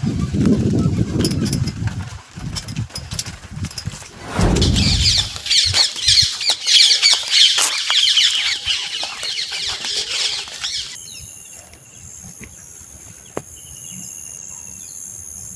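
Outdoor nature sounds: a low rumble in the first seconds, then many birds chirping rapidly together for several seconds. The chirping cuts off at about eleven seconds into a steady high-pitched tone.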